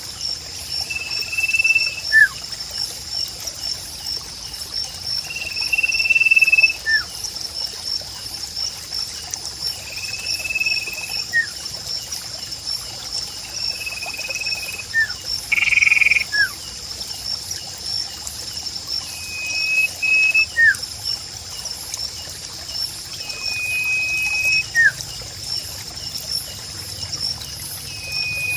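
Sirpu bird calling repeatedly, about every four seconds: a short level high whistle followed by a brief falling note, with one louder call about halfway. Behind it runs a steady high, fast-pulsing insect drone and a faint trickle of water.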